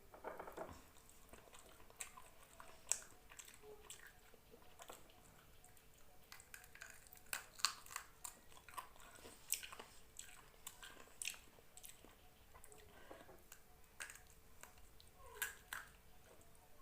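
A person chewing rice and chicken curry close to the microphone: irregular wet mouth clicks and smacks, with a faint steady hum behind.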